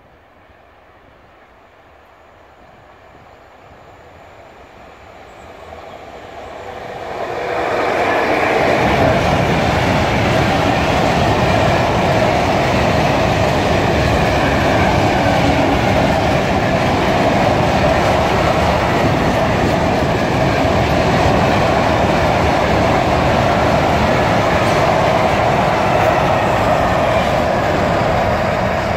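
Freight train of Falns hopper wagons hauled by a Škoda class 182 electric locomotive, growing louder over the first several seconds as it approaches, then passing close by with the steady noise of wagon wheels rolling on the rails.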